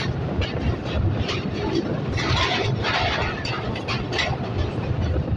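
Passenger train rolling over a steel truss bridge, heard from an open coach window: a steady low rumble of the wheels with irregular clacks and rattles.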